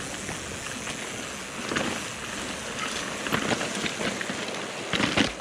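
Evil The Calling mountain bike riding down a muddy trail: a steady hiss of tyres through wet mud, with knocks and rattles of the bike over bumps, the loudest cluster about five seconds in.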